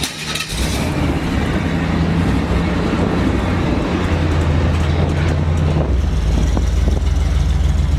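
Pickup truck engine running just after starting and pulling away, its low note growing deeper and louder about four seconds in and again about six seconds in.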